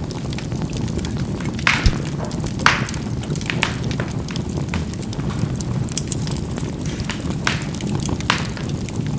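Charcoal burning in a fireplace: a steady low rush of burning, with scattered sharp pops and crackles as the charcoal bursts, the loudest about three seconds in.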